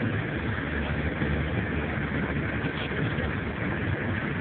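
Steady engine and road noise from a vehicle driving along, heard from inside the cabin.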